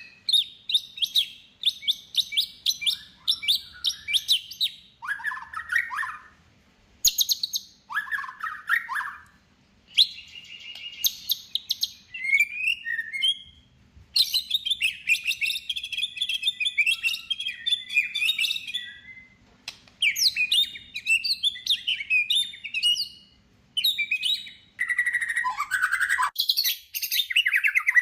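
White-rumped shama (murai batu) in full song: rapid, varied phrases of chirps, trills and whistles, separated by short pauses, with a few lower whistled phrases mixed in.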